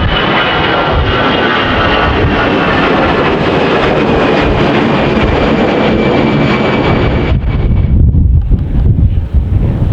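Jet airliner's engines running loud, a high whine over a heavy rumble. About seven and a half seconds in the engine noise drops away, leaving strong wind buffeting the microphone.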